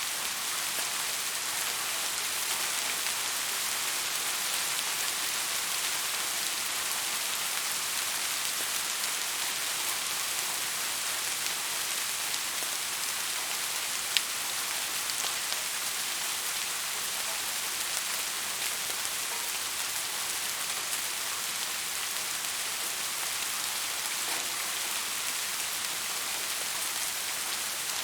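Steady rain falling, an even hiss of many drops with the odd sharper drop tick, one standing out about halfway through.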